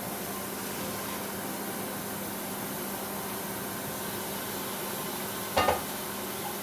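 Tap water running steadily onto cooked fettuccine noodles being rinsed in the sink, with one brief knock about five and a half seconds in.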